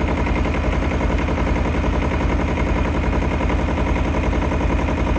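Tractor engine idling steadily, its rapid, even firing pulses running without a break.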